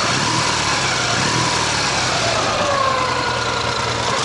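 Ural sidecar motorcycle's boxer-twin engine running steadily under way, with a faint whine sliding slowly down in pitch. The valve ticking there is judged not critical, and the engine runs evenly without misfires.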